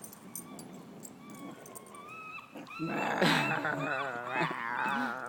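Puppy making a loud, wavering whining growl, starting a little under three seconds in and lasting to the end: play vocalising during a tug of war over a leash. Short chirps sound in the background throughout.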